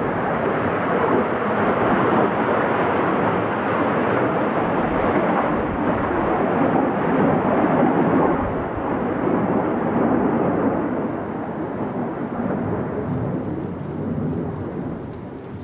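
Jet noise from Blue Impulse Kawasaki T-4 jets, a loud, steady rushing rumble that slowly fades over the last few seconds.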